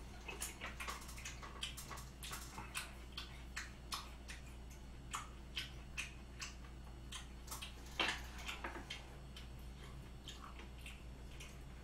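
Close-miked chewing of a mouthful of raw beef: soft wet mouth clicks and smacks, two or three a second, with a louder smack about eight seconds in, over a steady low hum.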